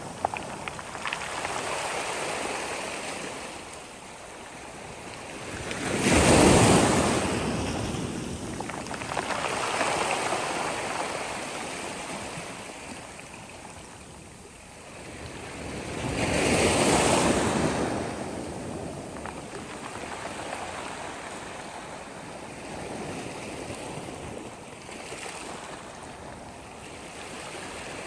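Sea waves breaking, a steady rush of surf that swells and fades. The two biggest breakers come about six and seventeen seconds in, with softer wash between them.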